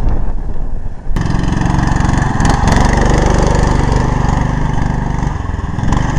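Small petrol engine running steadily at a fairly even speed. The sound shifts abruptly about a second in, to a louder, fuller running note.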